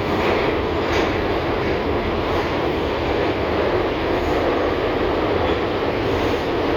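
An LVS-2009 tram in motion, a steady rumble of its running gear on the rails.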